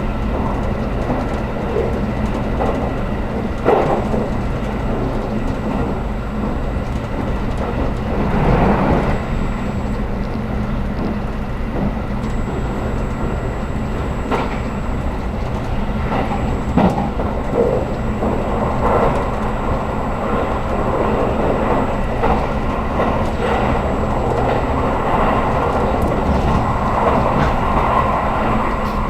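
JR Kyushu 783 series electric express train running, heard from inside the carriage: a steady rumble of wheels on rail with a few irregular knocks, as over rail joints.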